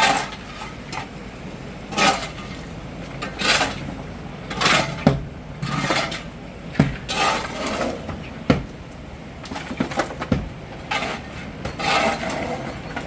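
Hard objects being handled, clattering and clinking in irregular knocks about once a second, some ringing briefly.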